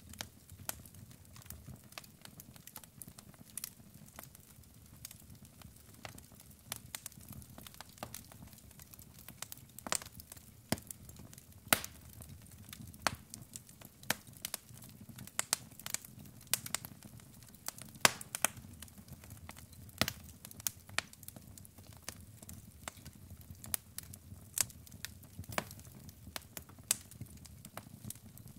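Wood logs burning in a fireplace: irregular sharp crackles and pops over a low, steady rumble of the flames.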